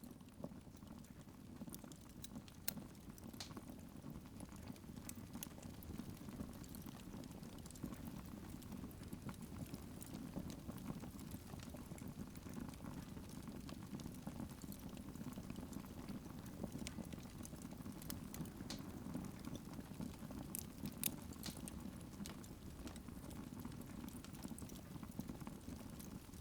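Wood fire burning in a fireplace: a steady low rush of flames with scattered sharp crackles and pops, a louder pop about 21 seconds in.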